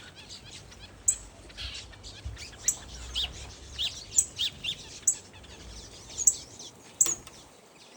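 Small aviary birds chirping and calling together: sharp high chirps about once a second, mixed with quick falling notes.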